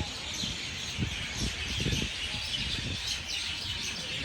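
A dense chorus of many birds chirping together in trees, a continuous overlapping chatter with no single song standing out, over low, uneven buffeting on the microphone.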